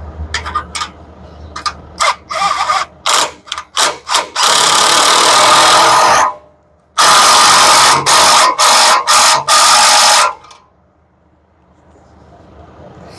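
Handheld power tool run in short trigger bursts, then held on for two longer runs of about two and three seconds, the second broken by a few quick releases.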